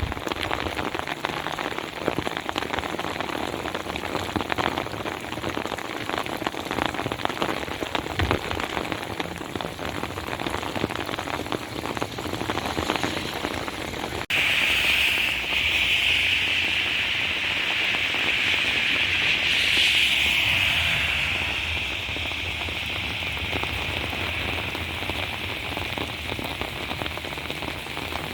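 Heavy rain pattering as a dense crackle of drops. About halfway it changes to a steadier, louder hiss that swells and then eases off.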